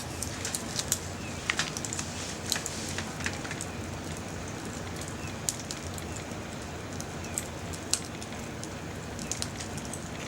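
Small wood fire of branches and scrap wood crackling, with irregular sharp pops over a steady background hiss.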